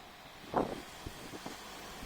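Fading rumble of a 1200 series diesel railcar receding past the level crossing, with wind on the microphone and a single clack about half a second in.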